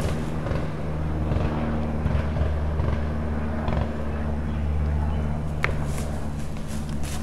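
Dry leaf litter rustling and crackling under a person crawling on hands and knees, with a few sharper snaps near the end. A steady low hum runs underneath throughout.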